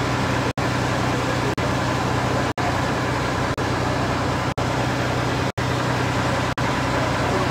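Steady street noise with a low engine-like hum, interrupted by very brief dropouts about once a second.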